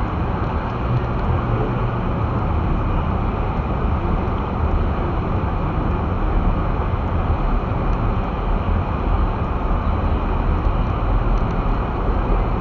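Steady road noise inside a moving all-wheel-drive car's cabin, with a low rumble from tyres and engine as it drives over snow-covered streets.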